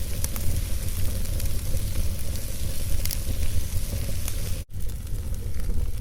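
Wood fire burning in a fireplace: a steady low rumble with scattered small crackles. The sound cuts out for an instant about three-quarters of the way through.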